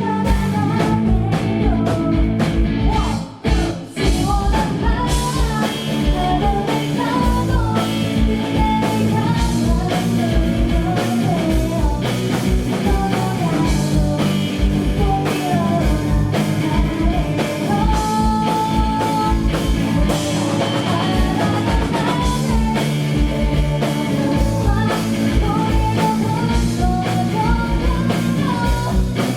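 Live heavy-metal rock band playing a song, with sung lead vocals over distorted guitars, bass and a pounding kick drum. The band cuts out briefly about three seconds in, then comes back in.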